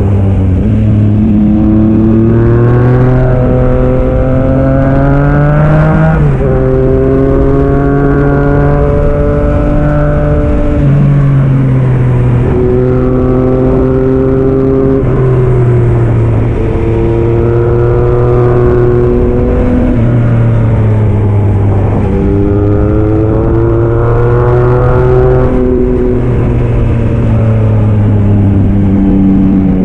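Yamaha MT-09 SP's three-cylinder engine through a Black Widow aftermarket exhaust, heard from the rider's seat. It revs up through the gears and eases off again, its pitch rising and then dropping sharply at each gear change, several times over.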